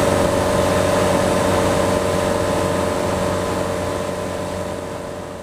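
Peugeot 208's diesel engine running at a steady speed, fading out gradually over the last few seconds.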